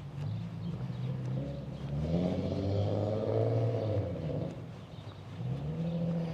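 Cars driving past on the street, their engines accelerating: one passes loudest between about two and four and a half seconds in, and a second vehicle climbs in pitch near the end.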